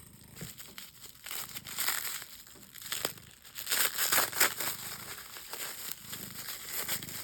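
Packing material crinkling and rustling as it is handled and pulled away from stone slabs, in irregular scratchy bursts, loudest about two and four seconds in.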